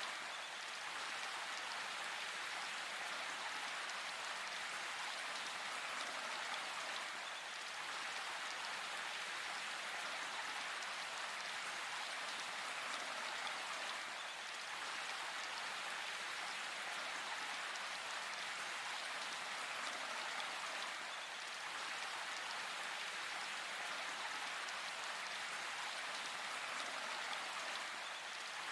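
Steady rain falling in a forest, an even hiss of many drops with no break.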